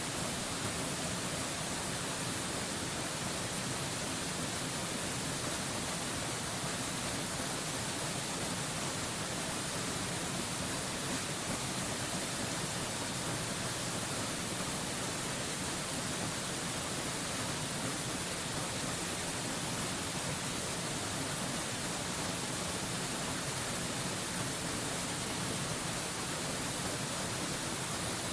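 A waterfall's steady rush of falling water, an even hiss heavy in the treble that never changes.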